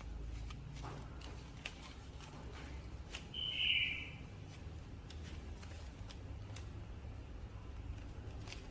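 Toy figure and its packaging being handled: scattered light clicks and rustles over a low hum, with one short, high squeak-like sound a bit over three seconds in.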